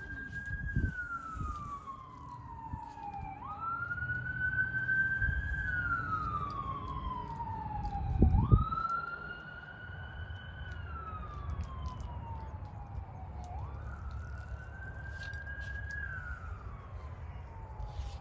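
Siren wailing in the distance, its pitch climbing quickly then sinking slowly, over and over about every five seconds. A low thump is heard about eight seconds in, the loudest moment.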